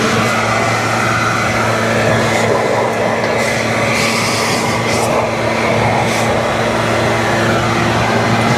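A motor-driven blower or shop vacuum running steadily at full speed, a constant motor hum under a rush of air.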